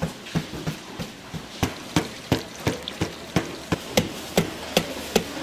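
A knife chopping on a cutting board in a steady rhythm, about three sharp strokes a second, the kind of cleaver work that cuts up chicken in a fried-chicken kitchen.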